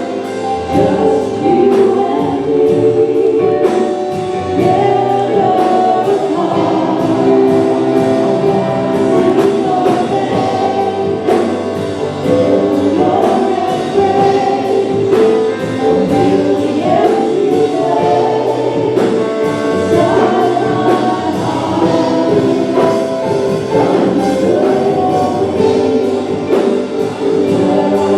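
Gospel choir singing in harmony over instruments with a steady beat.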